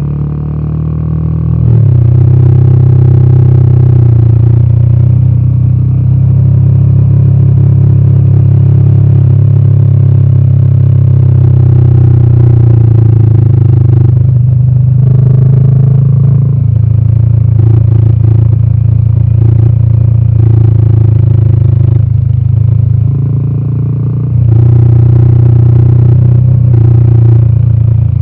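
Royal Enfield Himalayan 450's 452 cc single-cylinder Sherpa engine running under way, with a deep, bassy exhaust note. The throttle opens about two seconds in, eases briefly around the middle and again near the end, and opens up once more shortly before the end.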